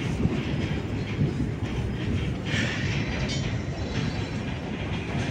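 Goods train of open-top wagons rolling along the tracks, a steady low rumble of wheels on rail.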